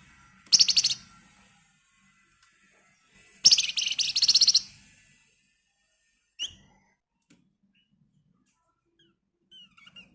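Flamboyan songbird giving two fast, harsh rattling trills (the 'ngebren' call), the second over a second long, followed by a few short rising chirps.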